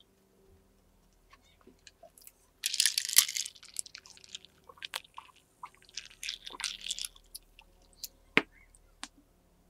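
Crunchy chewing of toasted bread in two bursts, then a single sharp knock about eight seconds in.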